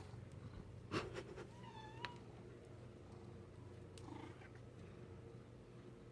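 A cat purring steadily, with a short meow about two seconds in. A sharp click about a second in is the loudest moment.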